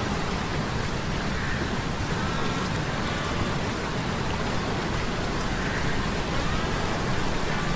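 Sea-storm ambience laid over a low metallic gear hum: a steady, even rushing of rain and surf-like noise with a heavy low rumble underneath and faint wavering tones on top.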